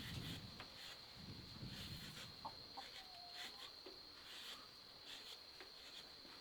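Chickens clucking faintly over a steady, high-pitched insect drone, with a short call about three seconds in.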